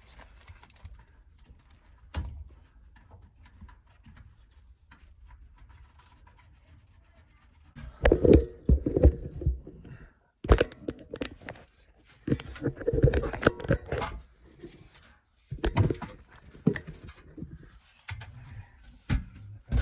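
Knocks, scrapes and rattling from handling and fitting vent pipe and its elbows. A single sharp knock about two seconds in, then irregular loud bursts of handling noise from about eight seconds in.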